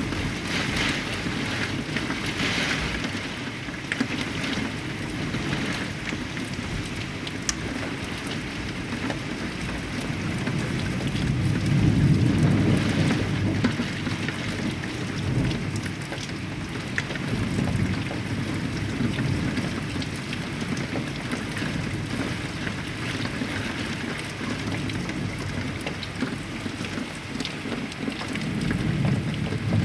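Heavy rain falling steadily, with a low thunder rumble that swells and rolls about halfway through and builds again near the end.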